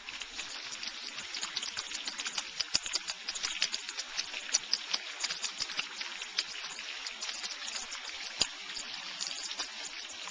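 Rain falling, with close raindrops landing in many irregular sharp ticks over a steady hiss.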